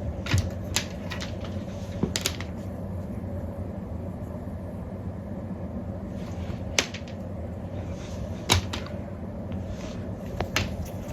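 A few scattered sharp clicks and taps, about six in all, over a steady low background hum.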